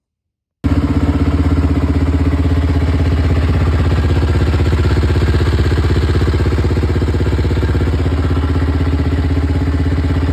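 Rebuilt KTM 505 quad engine with a new top end, a single-cylinder four-stroke, running steadily with an even, rapid firing pulse. It comes in abruptly about half a second in.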